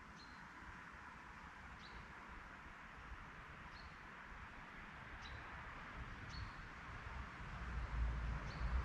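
A small songbird repeating a short, high chirp, six times at intervals of about a second and a half to two seconds, over a steady outdoor hiss. A low vehicle rumble grows louder over the last few seconds.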